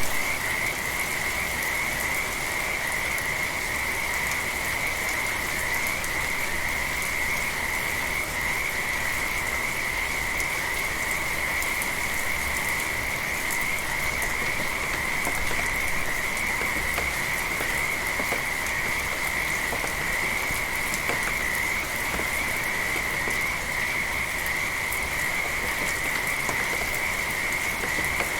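A dense, steady chorus of frogs calling at night, in a continuous high trill, over the even hiss of gentle rain.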